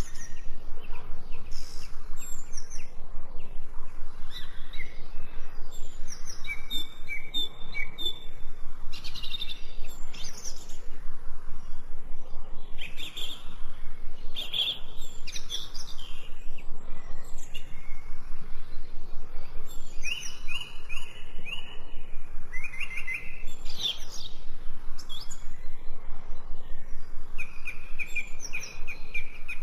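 Several songbirds singing and chirping, with quick runs of repeated short notes among scattered higher chirps.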